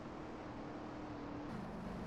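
Motorcycle engine running at a steady pitch over rushing noise. About one and a half seconds in, its note drops suddenly to a lower pitch and holds there.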